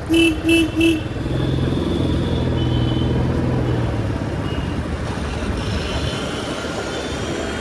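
Three short horn honks in quick succession in the first second, then a Royal Enfield Classic 350's single-cylinder engine running steadily on the move.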